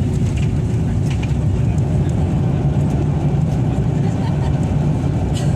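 Steady, loud low rumble of an airliner's engines and rushing air, heard inside the passenger cabin during landing.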